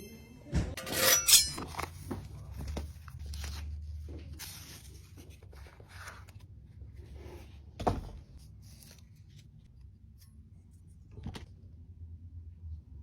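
Handling noises: a series of knocks, clicks and short scrapes, with a louder clatter about a second in and single knocks near 8 and 11 seconds.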